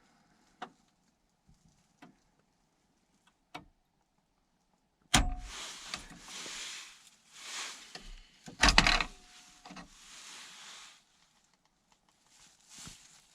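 Sharp clicks and rustling handling noise from a new 12 V cigarette lighter being worked in its dashboard socket in a 1988 Dodge W150 pickup during a test. A few faint clicks come first, then two loud clicks about five and nine seconds in, with rustling between them.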